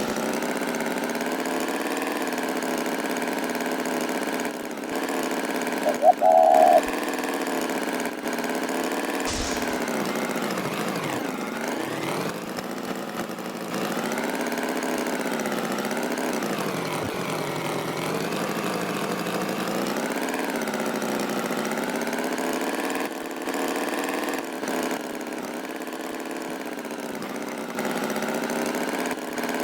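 Tractor engine running steadily, its pitch drifting slowly up and down, with a short loud high-pitched tone about six seconds in.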